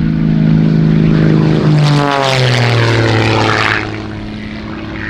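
Rebel 300 aerobatic monoplane's propeller engine making a fly-by. Its engine note drops in pitch as it passes about two seconds in, loudest just after, then quietens suddenly near four seconds.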